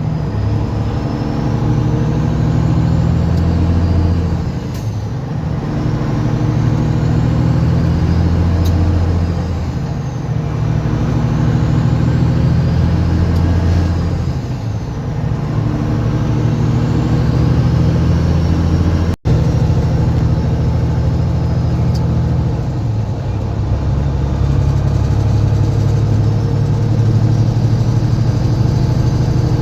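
Diesel engine of a semi truck heard from the cab, pulling through a series of gear changes. The engine note eases off and builds again about every five seconds.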